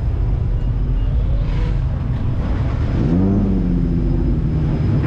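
Car engine running, with a rumble and a rise in engine pitch about three seconds in.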